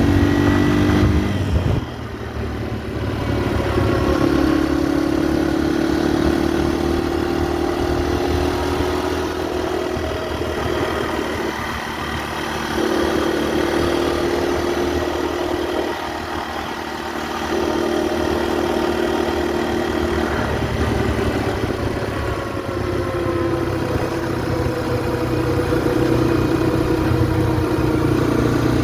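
Motorcycle engine running while under way, its pitch holding steady for stretches and dipping several times, with slow falls in pitch toward the end.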